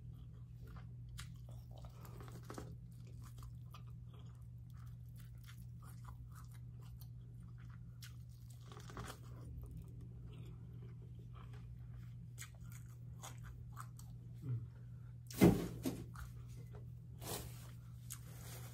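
Close-up chewing and biting of corn on the cob: soft crunches and small mouth clicks. One sharper, much louder knock about fifteen seconds in.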